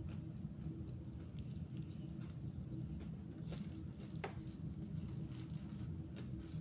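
Eating fried chicken up close: chewing with small wet clicks and crackles, one sharper click about four seconds in, over a steady low hum.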